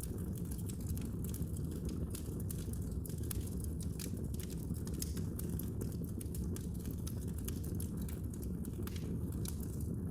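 Wood fire crackling in a fireplace: a steady low noise of burning with many small, irregular pops and snaps.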